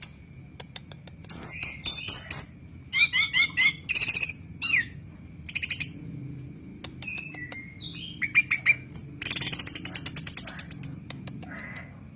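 Chestnut-capped thrush (anis kembang) singing in bursts: a run of very fast high notes, then chattering notes and short downward-slurred whistles, ending with a long rapid high trill about nine seconds in. A faint steady high whine runs underneath.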